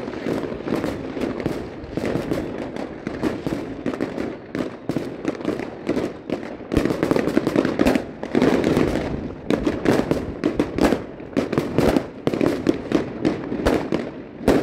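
Many fireworks and firecrackers going off at once: a dense, unbroken crackle of bangs and pops over a low rumble, growing louder about seven seconds in.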